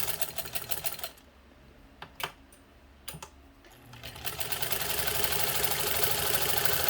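1948 Singer 15 sewing machine stitching at a short stitch length, with a fast, even clatter from the needle mechanism. It stops about a second in, two sharp clicks follow a second apart, and then it starts sewing again about four seconds in and runs steadily.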